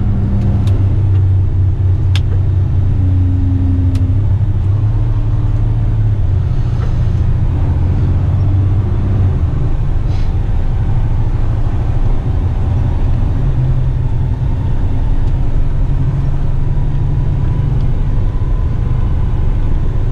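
Heavy rigid truck's diesel engine running steadily while driving, heard from inside the cab with road noise; the engine note shifts a few times along the way, with a few faint clicks.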